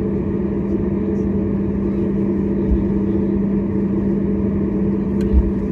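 Steady cabin drone of a Boeing 737 MAX 8 in flight: the CFM LEAP-1B engines and airflow make a low rumble with a steady hum, with a couple of brief low bumps about three seconds in and near the end.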